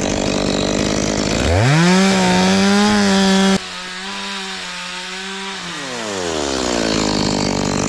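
Stihl chainsaw idling, then revved to full speed about a second and a half in and held there while notching a large branch. It drops suddenly in loudness partway through and winds back down to idle near the end.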